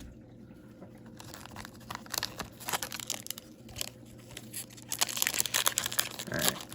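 Foil hockey-card pack wrapper being torn open and crinkled. It starts about a second in as irregular crackling and grows busier near the end.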